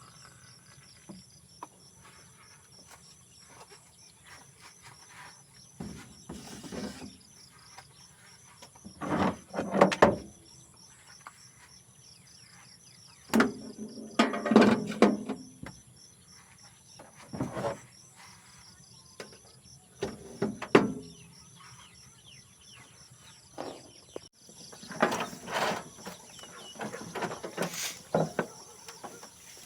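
A steady night-time chorus of crickets and other insects: a high, finely pulsing trill. It is broken several times by short, louder knocks and clatters of things being handled.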